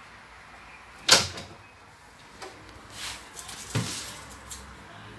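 Two sharp clunks of something being handled during cooking: the loudest about a second in and a second one near four seconds, with a short rustle before it.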